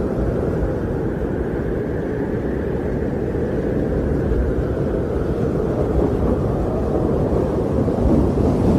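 Strong winter wind blowing as a steady low rumble, swelling a little near the end.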